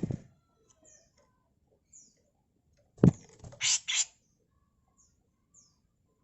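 Grey-cheeked bulbul (cucak jenggot) calling: faint short falling chirps come and go, and about three seconds in a sharp thump is followed by two loud, harsh rasping calls in quick succession.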